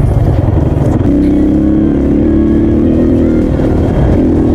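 Dirt bike engine running. From about a second in it holds a steady pitch, wavering slightly with the throttle, over a constant low rumble.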